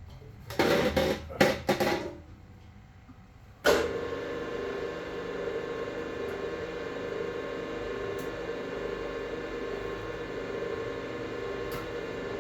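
A few loud clattering noises in the first two seconds, then a machine tool's motor switched on with a click at about four seconds and running steadily with an even hum.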